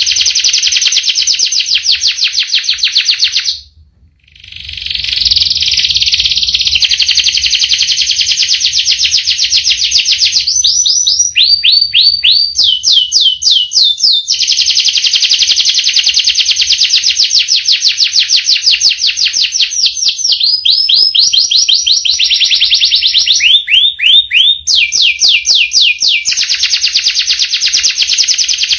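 Domestic canary singing long rolling trills of very rapid repeated notes, with a brief break about four seconds in. The song switches at times to slower runs of repeated sweeping notes.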